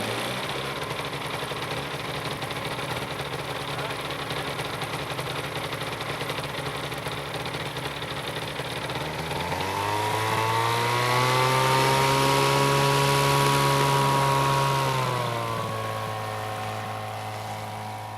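Rotax 618 two-stroke twin aircraft engine running at a steady idle. About nine seconds in it is throttled up to a higher, louder speed and held for several seconds. It eases back to idle about fifteen seconds in.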